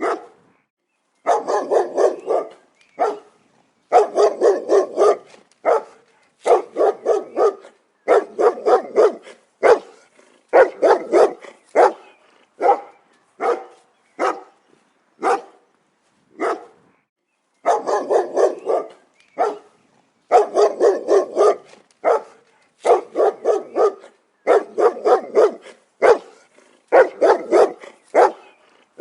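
A dog barking repeatedly in quick volleys of several short barks, with brief pauses between the volleys.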